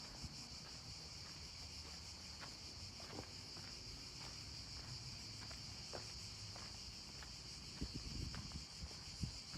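A steady, high chorus of insects chirring outdoors, with a few soft low thumps near the end.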